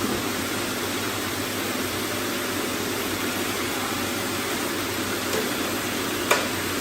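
Robot vacuum running steadily, an even hiss from its suction. A single sharp click comes near the end.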